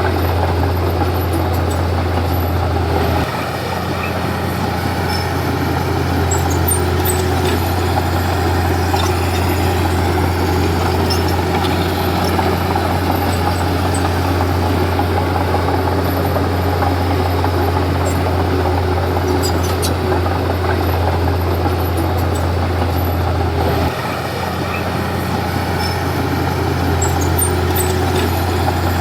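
Komatsu D31P bulldozer's diesel engine running steadily under work. Its note drops and gets a little quieter about three seconds in, then climbs again, and drops once more near the end.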